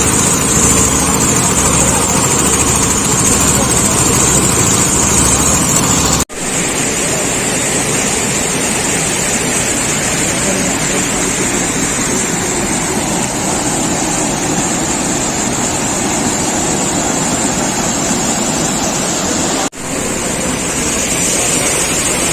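An engine running steadily with a low throb, then, after a sudden cut about six seconds in, a steady loud rushing noise that runs on past another cut near the end.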